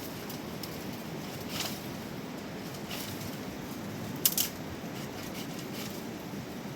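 Steady rush of a mountain river, with a few sharp clicks of something being handled close by, the loudest a quick pair about four seconds in.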